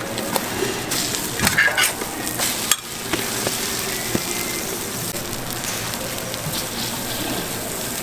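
Food sizzling on a hot flat griddle, a steady frying hiss. A few sharp clicks and scrapes of metal utensils in the first three seconds.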